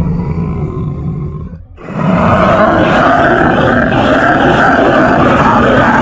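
Sci-fi alien creature sound effects: one fades out, and about two seconds in a loud, wavering creature roar starts and carries on.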